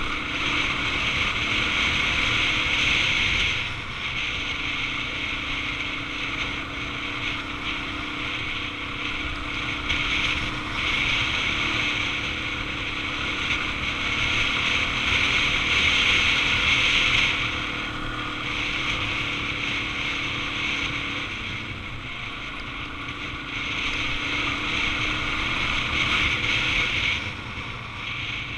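Wind rushing over the microphone with a Suzuki DR-Z400's single-cylinder engine running underneath while riding; the wind noise swells and eases several times.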